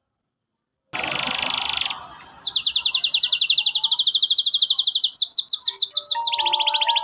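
Domestic canary singing: about a second of silence, then a short buzzy rattle, then long runs of rapid, evenly repeated high trill notes that switch to a new, faster and lower trill near the end.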